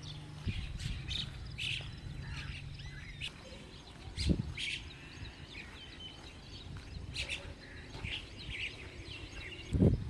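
Several birds chirping and calling in short notes, scattered across the whole stretch over a low steady rumble, with a single thud about four seconds in.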